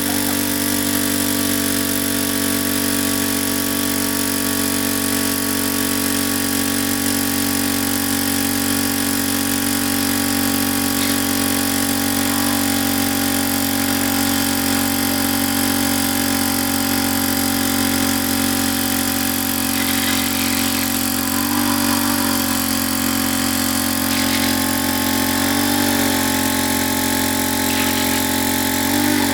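Small engine running steadily at a constant speed, its pitch shifting briefly a few times in the last third.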